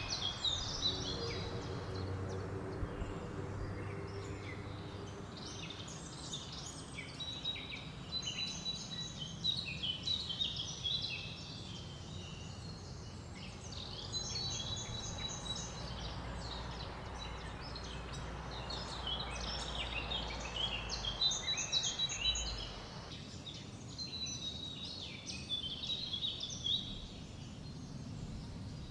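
Many songbirds chirping and singing in short, overlapping high calls over a steady hiss of wind through leaves, with a low rumble for several seconds past the middle.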